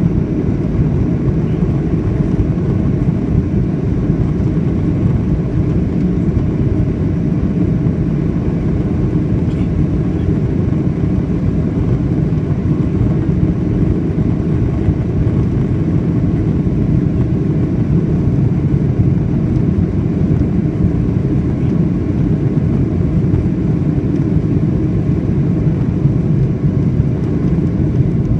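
Boeing 737-800 engine and airflow noise heard from inside the passenger cabin: a loud, steady low roar with no change.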